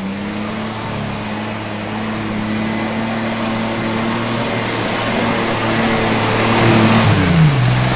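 1995 Mazda's Ford engine running at a steady, raised speed under way, slowly getting louder, with road and wind noise underneath; about seven seconds in the revs drop as the throttle comes off.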